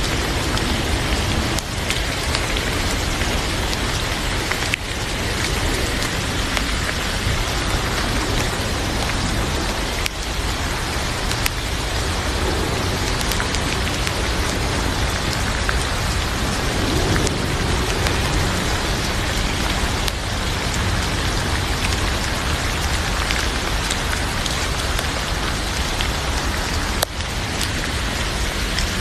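Heavy rain falling steadily, a dense even hiss with scattered sharp ticks of single drops.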